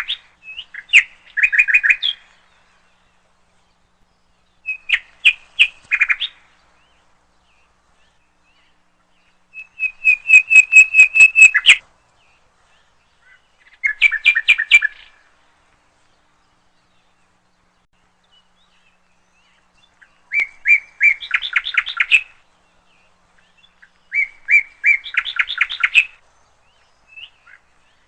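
A songbird singing in short phrases of rapid repeated chirping notes, about six phrases separated by pauses of a few seconds.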